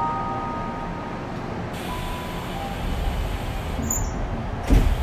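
Inside a Tokyu 5050 series commuter train standing at a station with its air conditioning running. A low rumble builds over the middle, and a single sharp thump near the end comes as the doors shut.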